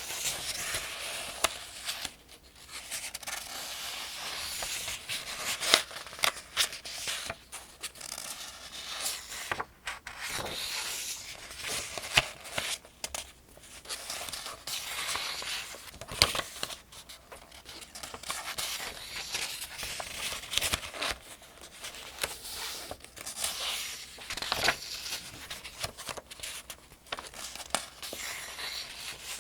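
Paper pages of a thin almanac being turned one after another, each turn a dry papery swish and crinkle with occasional sharper flicks of the page edge.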